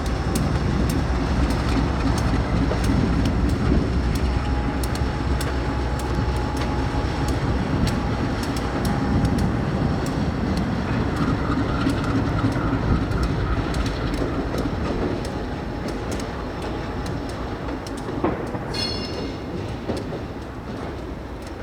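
Diesel locomotive running light past, its engine rumbling low while its wheels click over rail joints, the sound easing off as it moves away. A brief high squeal about three-quarters of the way through.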